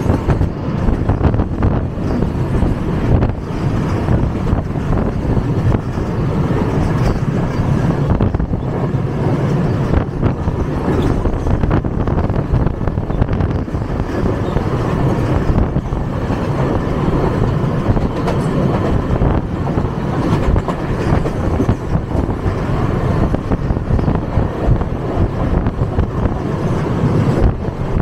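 Loud running noise of an electric Mumbai local train heard from on board while it crosses a railway bridge: a steady heavy rumble of the wheels on the rails, dotted throughout with sharp clicks and clatter.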